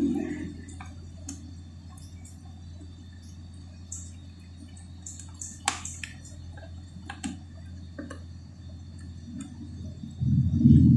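Close-miked chewing and wet lip smacks of someone eating chicken: scattered sharp smacks and clicks over a steady low hum. A louder stretch of muffled noise starts about ten seconds in.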